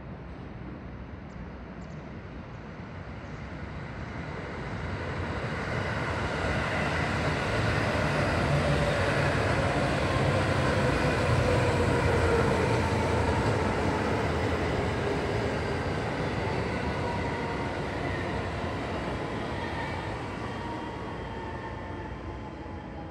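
JR West 221 series electric local train passing close by: its running noise grows for several seconds, is loudest midway, then fades as it moves off. A motor whine slides slowly down in pitch as the train slows.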